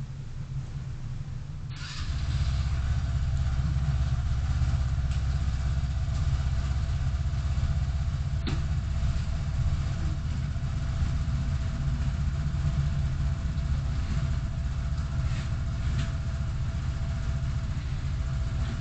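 Car engine starting about two seconds in, then running steadily with a low rumble and a faint steady whine above it.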